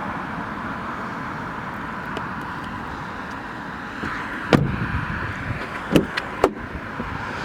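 Steady outdoor traffic noise, then a car door is shut with a thud about halfway through, followed by two sharper clicks a second or so later.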